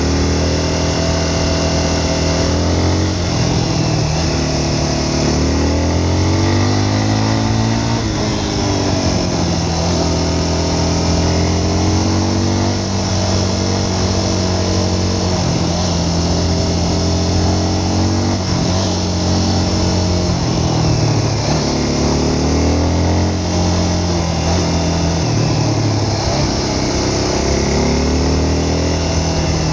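A vehicle engine under way, its pitch climbing and dropping again and again as it speeds up and slows or changes gear, over a steady rushing noise.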